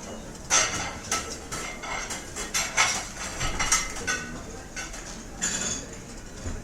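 Restaurant ambience: cutlery and dishes clinking and clattering in a quick run of sharp knocks over a low murmur of the room.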